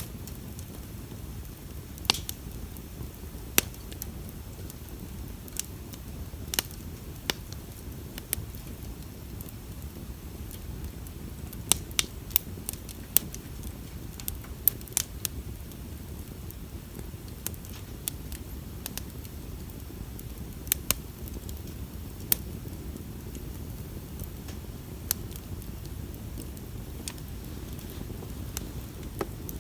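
Wood bonfire burning, with irregular sharp pops and crackles of the burning wood over a steady low rumble.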